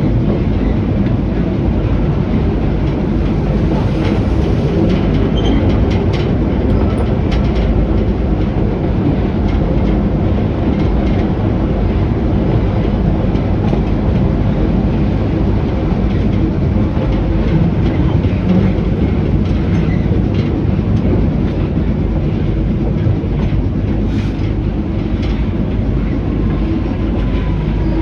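Passenger train running along the track: a steady heavy rumble with scattered clicks of wheels over the rails.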